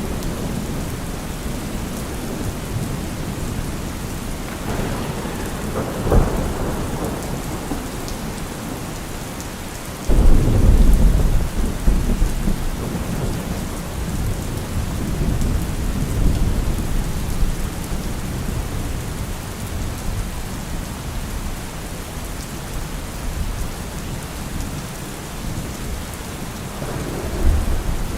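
Steady rain in a thunderstorm. Thunder rolls about five seconds in, a louder low crack of thunder starts suddenly about ten seconds in and rumbles on for several seconds, and another roll comes near the end.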